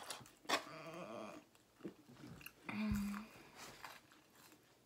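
People chewing and biting fast food close to the microphone, with small wet clicks of mouth sounds. A brief murmur about a second in and a short hummed "mm" about three seconds in.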